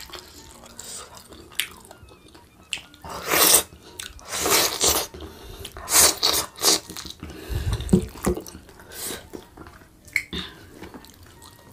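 Close-miked wet chewing and lip-smacking of a person eating chicken rendang by hand, in irregular bursts. One low thump a little under two-thirds of the way in.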